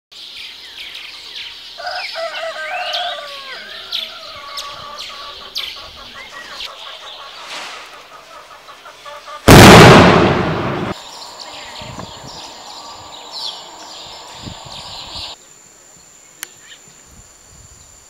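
Birds chirping and chattering, with many quick calls and pitch glides. About halfway through, a sudden, very loud burst of noise fades out over a second or so. Afterwards comes a steady high-pitched whine, and a hiss that cuts off abruptly a few seconds before the end.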